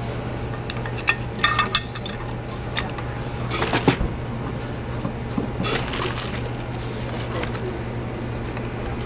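Hard objects clinking and knocking together as they are handled, in several short clusters, over a steady low hum.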